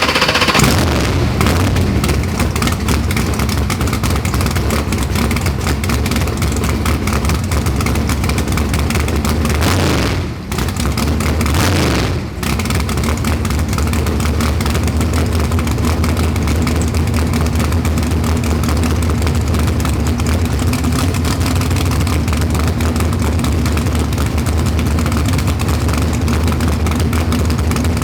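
Chevrolet Nova drag car's engine running hard under load on a hub dyno, loud and steady, briefly dropping off twice, about ten and twelve seconds in.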